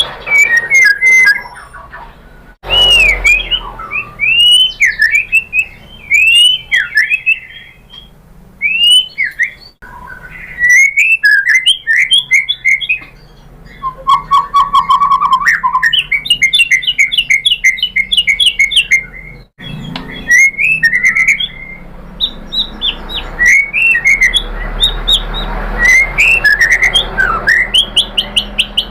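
White-rumped shama (murai batu) singing a loud, rapid, varied song of rising and falling whistles, sharp chirps and quick trills, used as a provoking call for other shamas. The song breaks off suddenly and restarts three times.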